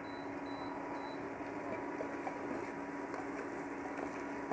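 Meat and spice masala frying in an open pressure cooker while it is stirred with a spatula, with small scrapes and ticks from the spatula against the pot, over a steady low hum. Three short, faint high beeps come in the first second.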